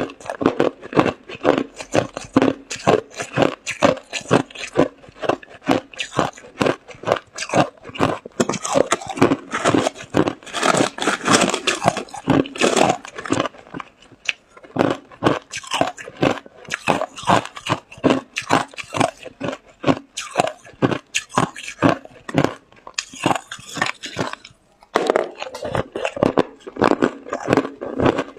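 A person biting and chewing ice: a rapid, unbroken run of loud crunches, several a second, with a short pause near the end.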